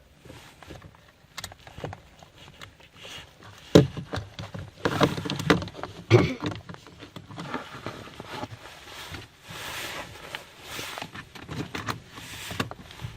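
Irregular clicks, knocks and rustling of hands working on a car door's lock mechanism, with the sharpest knocks about four and six seconds in.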